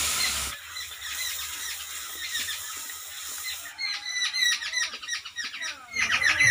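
Coriander, cumin and chilli spice paste dropped into hot mustard oil in a wok: a loud sizzle that eases after about half a second into a softer sizzle, which stops a little before four seconds in. Small birds chirp throughout, most plainly in the last couple of seconds.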